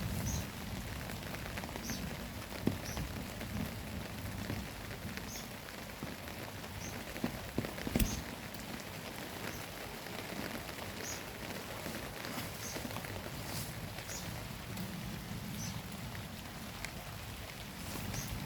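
Steady rain falling on surfaces during a thunderstorm, with a few sharp drip-like taps, the loudest about eight seconds in.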